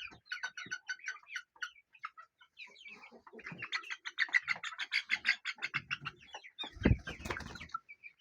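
A flock of domestic chickens clucking, with many short calls in quick succession that grow busier in the middle. A low thump comes about seven seconds in.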